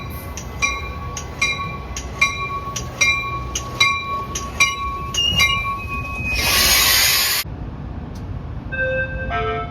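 Railroad warning bell ringing steadily, a little more than one strike a second, then stopping about six seconds in. A loud hiss lasting about a second follows, and a few short tones sound near the end.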